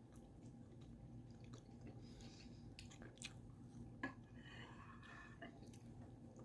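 A person faintly chewing a mouthful of slow-cooked roast, with small clicks and one sharper click about four seconds in.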